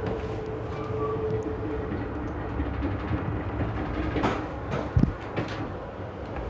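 Amtrak Desert Wind passenger train rolling along the track, heard from on board: a steady rumble with a few sharp knocks between about four and five and a half seconds in, the loudest just after five seconds.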